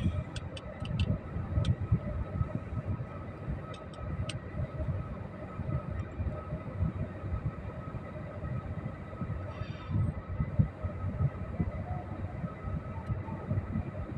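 Low, uneven rumble of a vehicle running, with a few faint clicks in the first couple of seconds.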